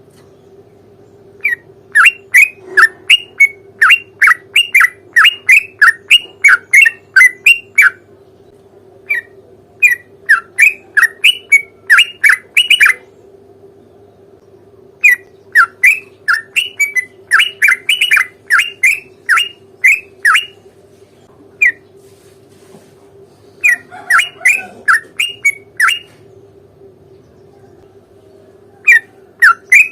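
Yellow-vented bulbul singing long rapid runs of loud, short, downward-slurred notes, about three to four a second, in bursts of several seconds with short pauses between. A steady faint hum lies underneath.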